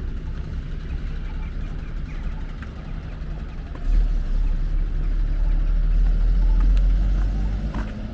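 A motor vehicle's low engine rumble close by. It swells sharply about halfway through and fades near the end, as a vehicle passes.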